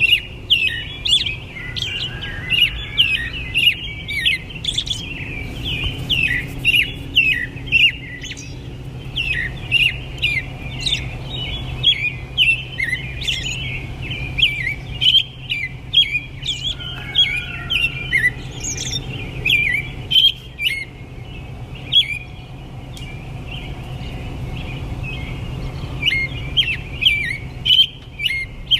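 Many small birds chirping, with quick short calls overlapping one another without pause. Underneath them there is a steady low hum.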